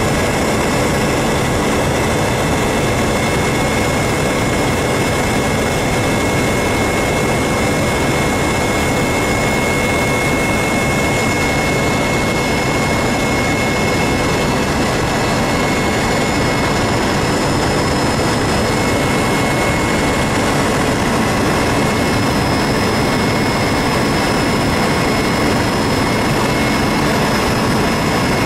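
Tour helicopter's engine and rotor running steadily during flight, a loud unbroken noise with a few steady tones, one of them a high whine.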